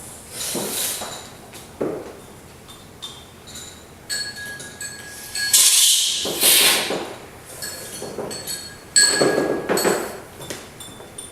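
Coffee-cupping spoons clinking and ringing against cups and glasses, with several loud, hissing slurps of coffee sucked from the spoons.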